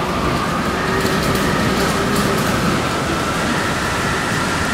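Hurricane wind and rain, a steady, even rushing noise.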